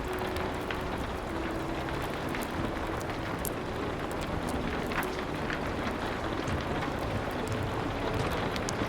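Steady rain hiss mixed with the crackle of a wood fire, sharp pops scattered irregularly through it, and soft held low notes of music underneath.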